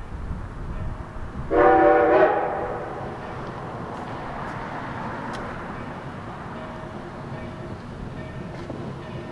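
Narrow-gauge steam locomotive 493's whistle sounds one short blast, under a second long, about a second and a half in, over the steady rumble of the train running on the rails.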